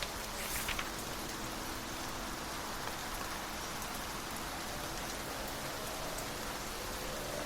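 Steady rain falling, with a brief rustle about half a second in. A faint low hum comes in during the second half and begins to rise in pitch near the end.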